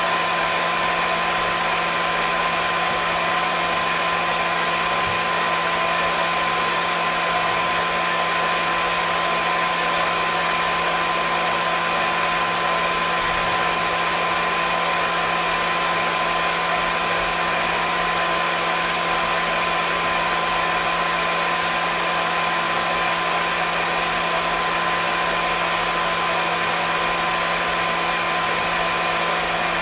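Hair dryer running steadily: an even blowing hiss with a steady motor whine.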